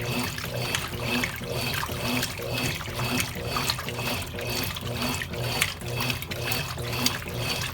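Water churning in a Consul Cargo 8 kg washing machine, swelling and fading in an even rhythm about twice a second.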